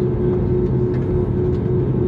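Steady airliner cabin noise: a low engine rumble with a constant droning hum.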